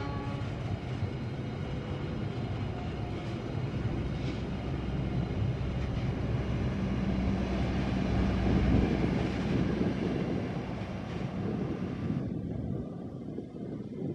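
KA Argo Wilis express passenger train passing close by, a steady rumble of its wheels and cars on the rails. It grows louder to a peak about nine seconds in and thins out after about twelve seconds as the train moves away.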